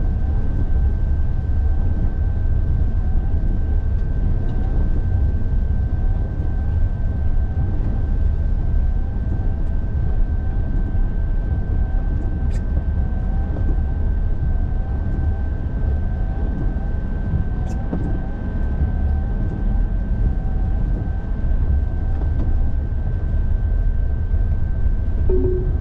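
Car driving, heard from inside the cabin: a steady low road and engine rumble, with a thin steady whine above it.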